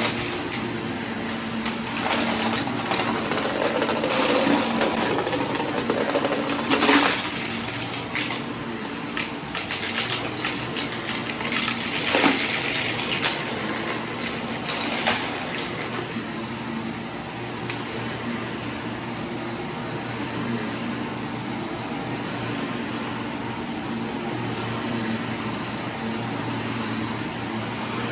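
Vacuum cleaner running with a steady motor hum and rushing airflow, picking up a spread-out mess in a messy mess test. Uneven bursts of louder rushing and crackling come through the first half, then the sound settles to a steady drone.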